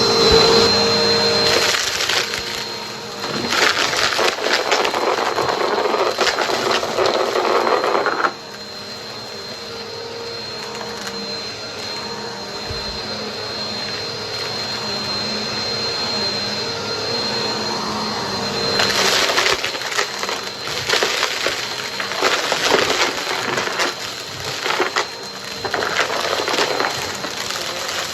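Vacuum cleaner running with a steady motor whine while it sucks up dry debris, giving dense crackling and crunching; the crunching eases off for about ten seconds in the middle and then picks up again.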